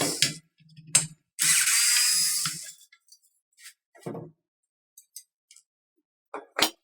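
Tools and parts being handled on a workbench: a few sharp clicks and knocks, and a hiss-like scraping noise lasting about a second and a half.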